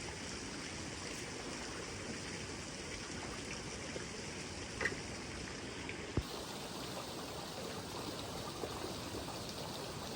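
Steady rush of running water, with a soft knock just before the middle and a sharper knock about six seconds in.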